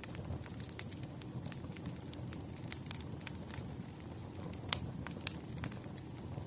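Firewood fire crackling: irregular sharp pops and snaps over a low steady rumble, with the loudest pop a little under five seconds in.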